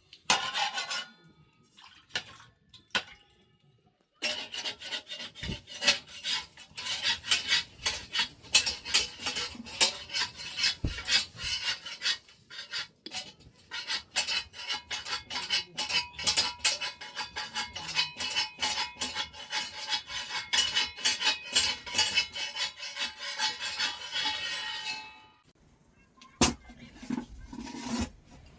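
Rapid, continuous clinking and scraping of metal utensils and pots. It starts about four seconds in, after a few scattered clicks, and stops a few seconds before the end.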